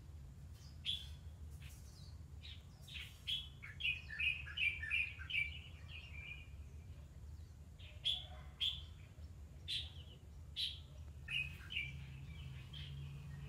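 Small birds chirping: scattered short, high chirps, with a quick run of twittering chirps about four to six seconds in, over a steady low background hum.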